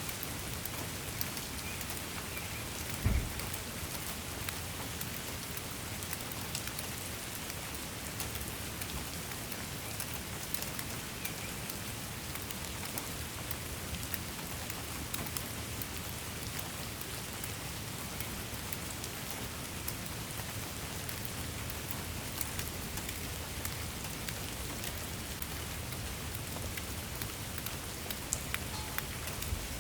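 Steady rain falling, an even hiss dotted with many sharp drop ticks. There is one brief low thump about three seconds in.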